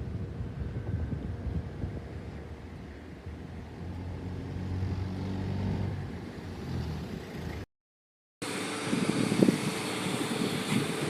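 Engine noise with wind buffeting the microphone: a low hum swells for a few seconds, cuts to silence for under a second about three-quarters of the way in, then returns louder and gustier with a steady tone.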